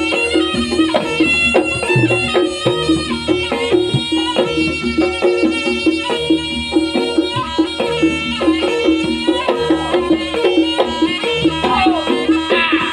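Live traditional Javanese music for a Pegon horse dance: percussion keeping a steady beat under sustained melodic notes.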